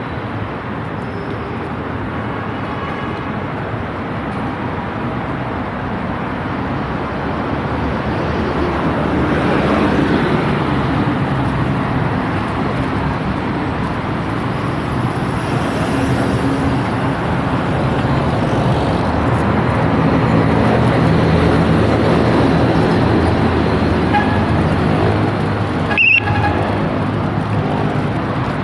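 Road traffic noise. A motor vehicle's engine hums steadily close by, stronger in the second half, and there is one sharp click near the end.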